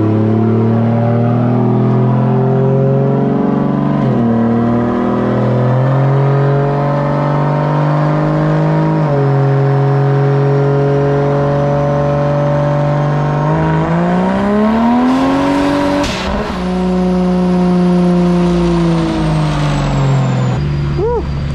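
Turbocharged 2JZ inline-six in a Toyota 4Runner making a full-throttle pull on a chassis dyno, its note stepping at gear changes about four and nine seconds in, with a faint rising turbo whine. About sixteen seconds in, as the pitch climbs, a sudden loud whoosh: the charge pipe blowing off, a boost leak. The engine runs on at a lower pitch with a falling whistle, then lets off near the end.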